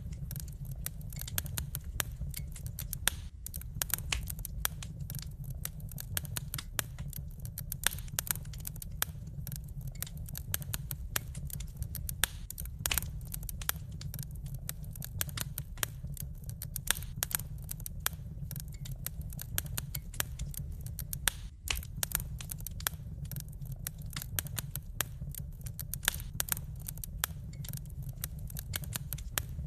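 Wood fire burning in a fireplace, crackling with dense, irregular pops and snaps over a steady low rumble.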